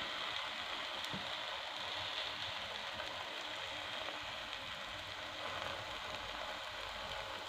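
An eggless batter omelette sizzling gently in an oiled frying pan: a steady, soft hiss of frying.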